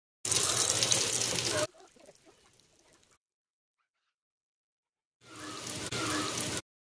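Breaded chicken roll shallow-frying in hot oil in a pan, sizzling in two short stretches of about a second and a half each, with silence between.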